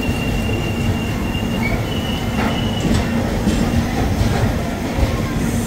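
Passenger train running on the rails: a steady low rumble with a thin, high wheel squeal over the first couple of seconds and a few faint clicks from rail joints after it.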